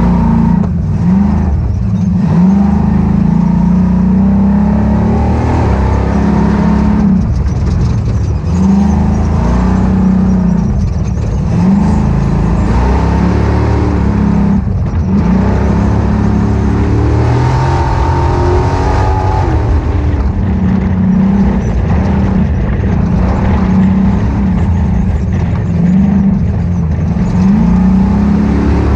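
Ultra4 off-road race car's engine running hard under racing throttle, its revs rising and falling again and again, with scattered short knocks.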